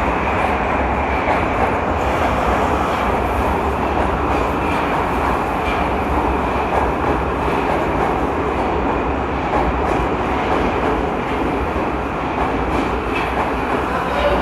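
81-722.1/723.1/724.1 metro train running through a tunnel, heard from aboard: a steady rumble of wheels on rail with a dense rushing noise and faint scattered clicks.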